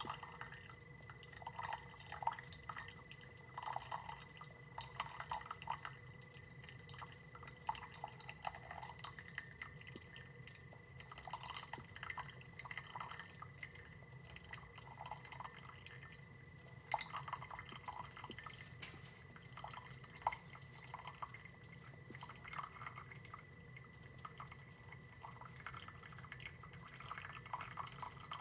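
Horavie single-serve coffee maker brewing, with coffee dripping into the cup in irregular drops over a low steady hum.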